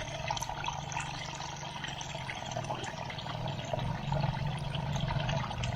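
Water running steadily, like a small stream or outflow, with faint scattered ticks or splashes over the flow.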